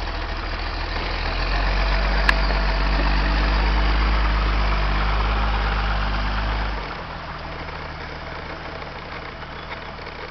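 Jeep engine running at low speed close by, a steady low hum that grows louder for a few seconds and then drops off suddenly about seven seconds in. A single sharp click about two seconds in.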